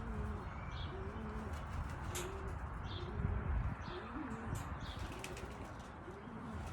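Racing pigeons cooing over and over in low, arching coos, with a few brief sharp clicks from handling.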